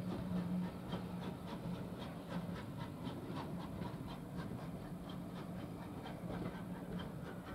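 Steam-hauled train's coaches rolling slowly away over the track, their wheels clicking a few times a second, over a steady low hum from an idling BR green Class 115 diesel multiple unit.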